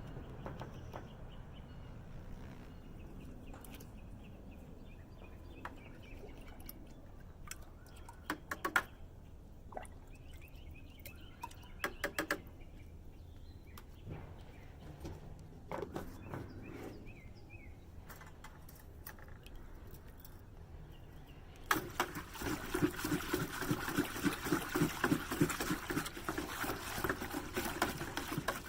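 A few light clicks and knocks of handling, then about two-thirds of the way in water starts running and splashing into a container, loud and steady with a fast pulsing texture, as the dye is made up.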